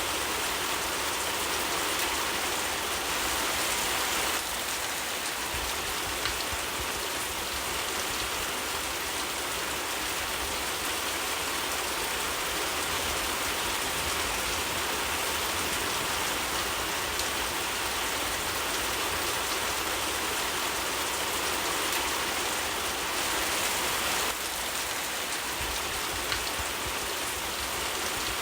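Steady rain falling, an even dense hiss of many drops, with a couple of faint single ticks.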